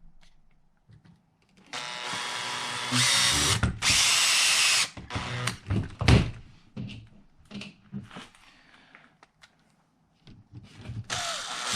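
Small cordless drill driving screws into the RC truck's frame in a few seconds-long runs, the motor speeding up partway through. Then light clicks and knocks as the parts are handled, and the drill starts again near the end.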